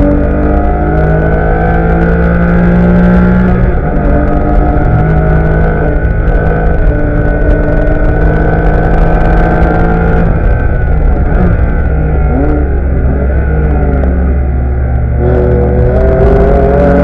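Porsche Cayman S race car's flat-six engine heard from inside the cockpit, pulling hard up through the gears with an upshift about four seconds in. About ten seconds in it drops away under braking, with short rises in pitch as it shifts down, then it opens up again and climbs near the end.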